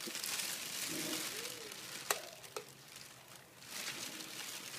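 Sliced beef, onion and egg sizzling in oil in a frying pan as they are stirred, with two sharp taps of the utensil against the pan about two seconds in.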